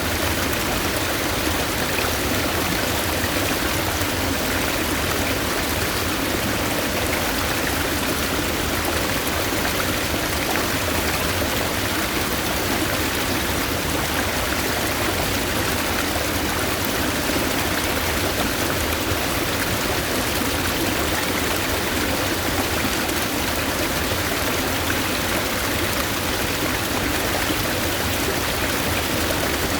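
Stream water flowing, a steady even rush with no breaks or single events.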